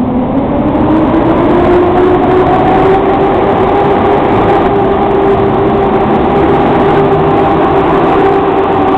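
Electric locomotive hauling a passenger train: a whine rises in pitch over the first two seconds or so, then holds steady over a loud rumble of running gear.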